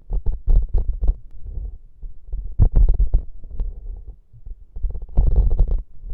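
ASMR props handled right against a sensitive microphone: irregular taps and knocks with deep, boomy thumps, and a denser stretch of rubbing or scratching near the end.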